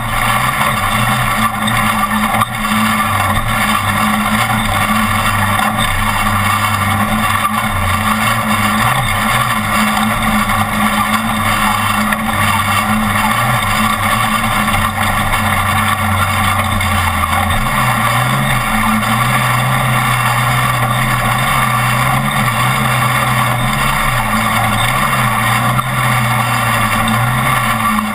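Off-road race truck's engine running hard at speed, heard from inside the cab over heavy road and rattle noise. The engine note steps up in pitch about two-thirds of the way through, and there is a single knock early on.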